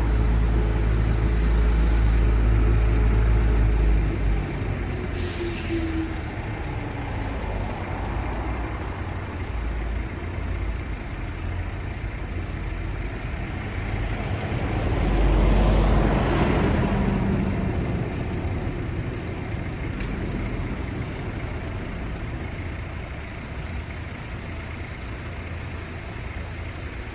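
City street traffic: a heavy vehicle's engine rumbles at the start, a brief hiss comes about five seconds in, and another vehicle passes by, swelling and fading about halfway through, over a steady traffic hum.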